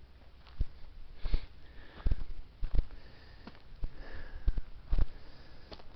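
A hiker's footsteps on a steep dirt trail, a step landing about every three-quarters of a second, with his breathing and sniffing between steps.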